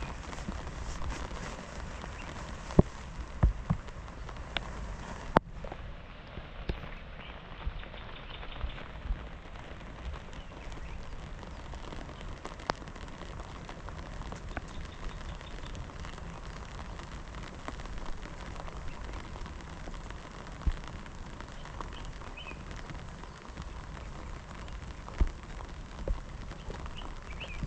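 Steady rain falling. Now and then a single sharp tap or knock stands out, a handful of times.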